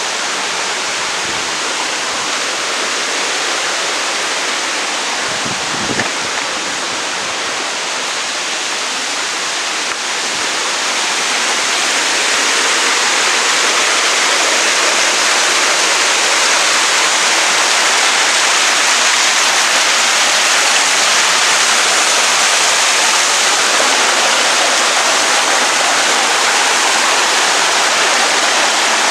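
Waterfall rushing in a steady, loud roar of falling water, growing louder about ten seconds in and then holding steady.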